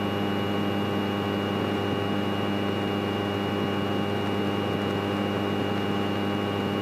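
Light single-engine Grumman airplane's piston engine and propeller running steadily at low taxi power, an even drone with a steady hum.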